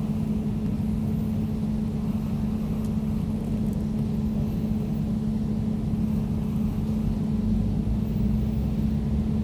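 Air conditioner running steadily: an even, low mechanical hum with a steady tone in it.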